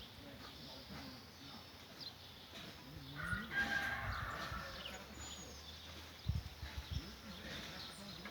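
Birds calling outdoors, with a louder, fuller call about three seconds in lasting a second or so, and a few short low knocks a little past six seconds.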